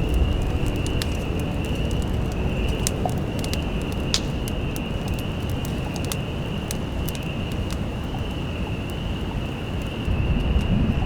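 Wind rumbling steadily, growing louder near the end, with many scattered sharp ticks and pops and a steady thin high-pitched whine.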